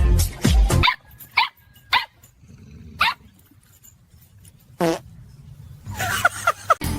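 A dog barking: a loud burst at the start, then single short barks spaced roughly a second apart and a quick run of them near the end.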